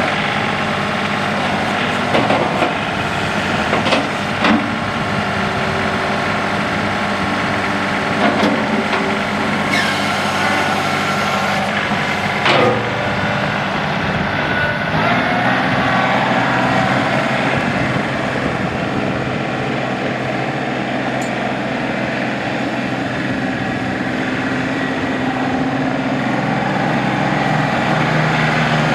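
John Deere 3032E compact tractor's three-cylinder Yanmar diesel running steadily, with a few short knocks and clunks.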